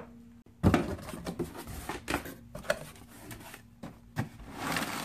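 Knocks, clatter and rustling as sample pieces are handled and taken out of a box, with a sharp knock about two-thirds of a second in.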